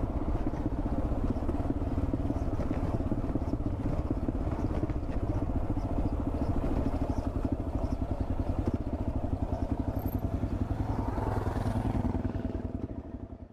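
Single-cylinder 650 dual-sport motorcycle engine running steadily with an even, regular pulse, fading out near the end.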